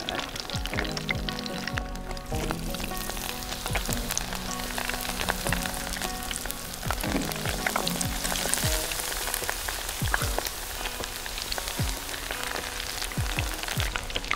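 Tempura deep-frying in hot oil: a dense, steady sizzling and crackling as battered pieces bubble in the pot.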